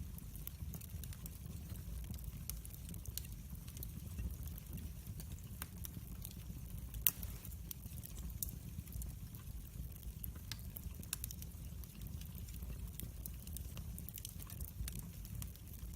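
Wood fire in a fireplace crackling, with scattered pops and snaps over a low steady rumble of the flames; one sharper pop about seven seconds in.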